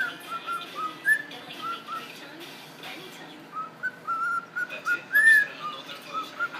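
Cockatiel singing: a string of short, clear whistled notes that rise and fall, with louder, higher notes about a second in and again about five seconds in.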